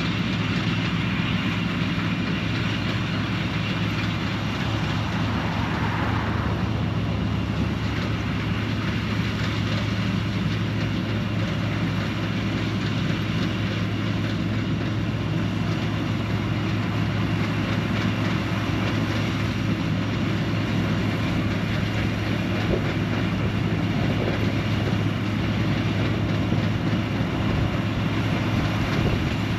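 Combine harvester's diesel engine and threshing machinery running steadily under load, with a constant low hum. About six seconds in there is a brief hiss.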